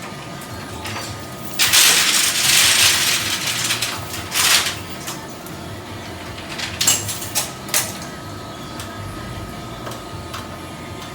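Metal rattling and scraping for about two seconds, a second shorter burst, then a few sharp clinks: rigging gear being handled.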